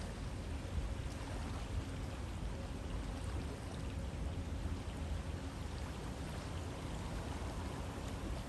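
River water flowing steadily, an even rushing noise with a deep low rumble and no separate events.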